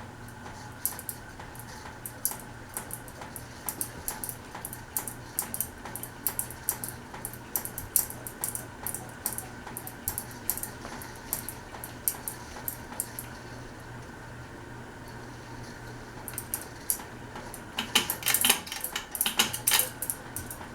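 Sierra ceiling fan running at medium speed with a steady motor hum and irregular light clicks and rattles. Near the end comes a dense flurry of clicking and rattling as the fan is switched up to high speed.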